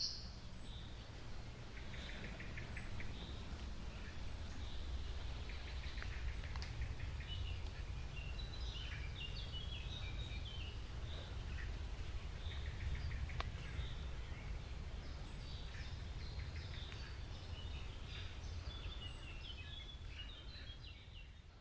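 Several wild birds singing, one repeating a short high chirp about every second and a half, over a steady low rumble; it fades out at the end.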